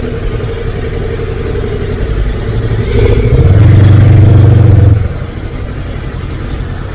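Honda CB500X parallel-twin motorcycle riding in city traffic, with steady engine and road noise. About three seconds in, a loud, low, steady drone rises over it for about a second and a half, then stops.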